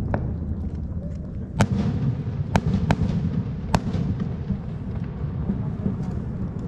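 Fireworks going off: a continuous low rumble of bursts with about five sharp bangs, the loudest about a second and a half in and again near four seconds in.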